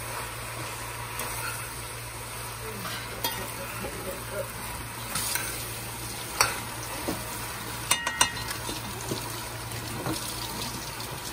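Bodi (yard-long beans) and sliced potatoes sizzling in a pot as a metal spoon stirs them, with scattered clicks and scrapes of the spoon against the pot, a cluster of them about eight seconds in.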